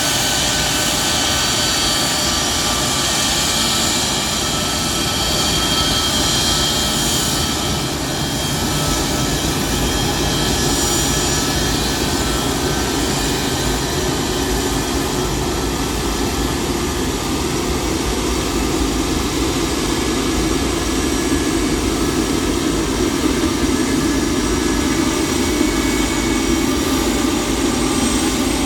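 Jet engines of a C-17 Globemaster III military transport (four turbofans) running steadily. A high whine made of several steady tones is strongest in the first several seconds, then eases while a deeper rumble grows louder toward the end.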